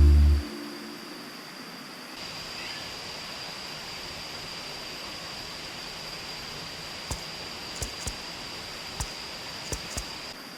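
Waterfall rushing steadily, an even hiss of falling water, with a faint steady high tone over it and a few light clicks near the end. A tail of background music stops about half a second in.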